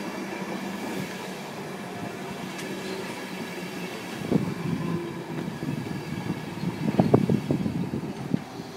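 Train on the move: a steady running hum, then the wheels knocking irregularly over rail joints and points from about four seconds in, with the densest knocks around seven seconds.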